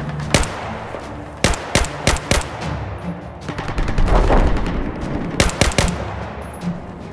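Battle sound effects: gunshots in quick groups of three or four, with a longer low blast about four seconds in, over background music.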